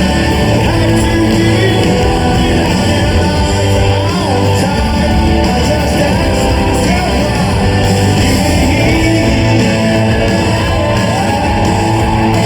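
Live rock band playing with singing over it, heard in a large hall.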